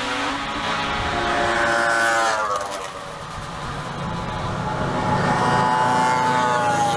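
Classic racing motorcycles accelerating hard past on a road circuit: one engine's note climbs in pitch and fades away after about two and a half seconds, then another bike's note rises steadily as it comes through near the end.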